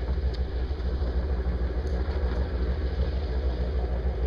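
Floatplane's piston engine running steadily at low power as the plane taxis in across the water.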